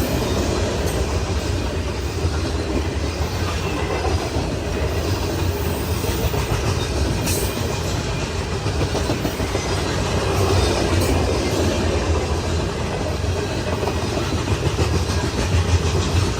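Freight cars of a long grain train rolling past: a steady rumble of steel wheels on rail, with a few sharp clicks.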